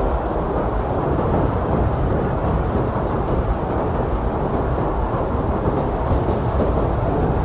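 Blizzard wind blowing hard and steadily, a dense, deep rushing rumble with little change.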